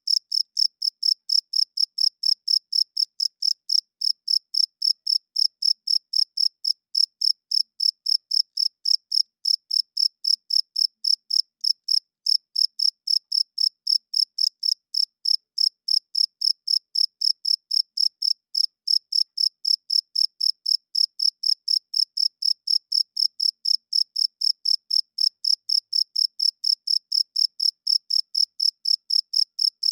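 Crickets chirping: short, high-pitched chirps repeated evenly at about four a second, without a break. The sound is made by male crickets rubbing their wings together.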